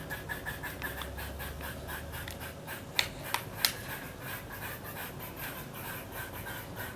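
Pileated woodpecker pecking at wood: three sharp strikes in quick succession about three seconds in, over a faint, fast, even pulsing.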